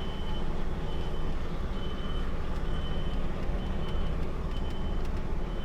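A heavy truck's diesel engine running low and steady, with a reversing alarm beeping about once a second.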